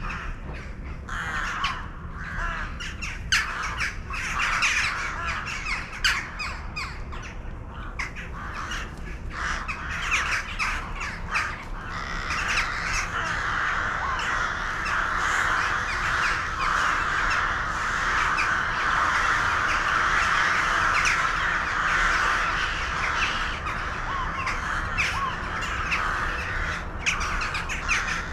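A flock of birds calling at once, many short calls overlapping. The chorus grows denser and louder about twelve seconds in and eases off again a few seconds before the end.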